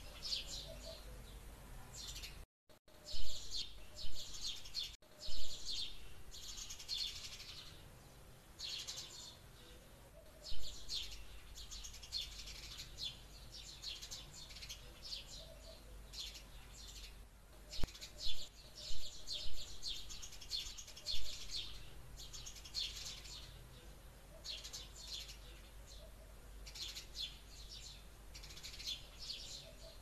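Small birds chirping in rapid trilled bursts, one after another, with a brief gap a couple of seconds in.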